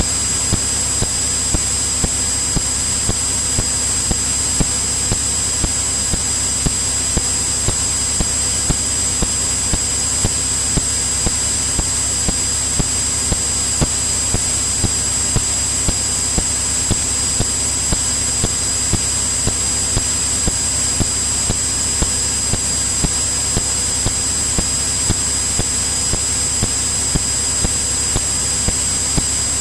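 Steady in-flight cabin noise of a Cirrus single-engine piston airplane: engine and propeller drone under an even hiss, with a steady high-pitched whine and light, regular ticks.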